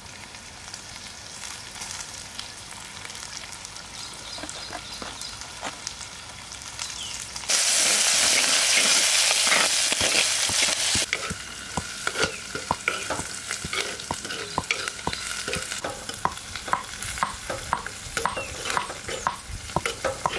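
Hot oil sizzling in a cooking pan. About seven seconds in, something goes into the oil and it flares into a loud hiss for about three seconds, then settles back to frying, with frequent clicks and scrapes of a spoon stirring the pan.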